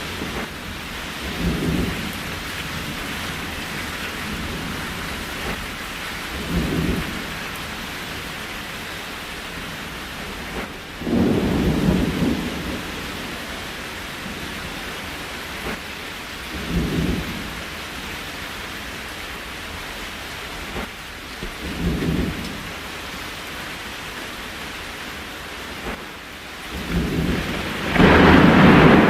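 Steady rain, with low rumbles swelling for about a second roughly every five seconds, a stronger one about a third of the way in and a loud surge near the end.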